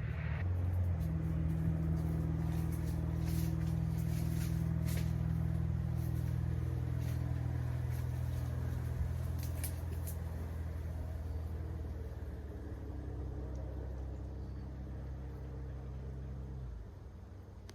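A motor running with a steady low drone that drops away near the end.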